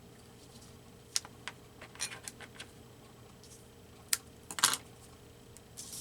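Scattered sharp clicks and taps of hands working a roll of double-stick tape and paper, with a short scratchy rasp a little past four and a half seconds in.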